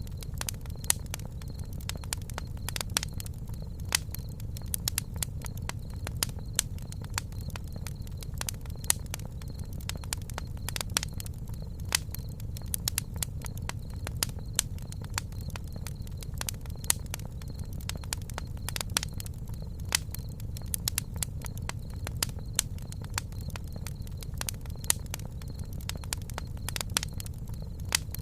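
Campfire burning, with frequent irregular crackles and pops over a steady low rumble. A faint steady high tone runs underneath.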